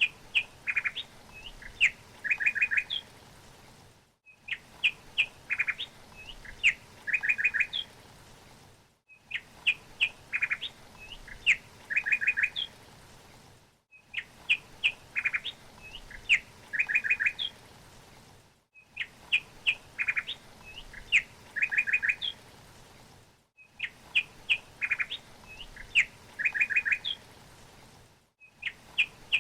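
Songbird chirps and quick trills. The same few seconds of song repeat about every five seconds as a loop, with a brief dropout to silence between repeats.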